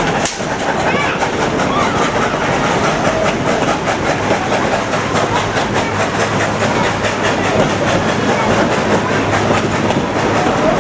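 Narrow-gauge heritage train running on the track: a steady, loud rumble and clatter of the cars on the rails, with a sharp click just after the start.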